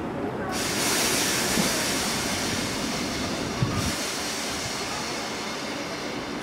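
Class 769 multiple unit standing at the platform just before it moves off: steady running noise with a strong hiss over it.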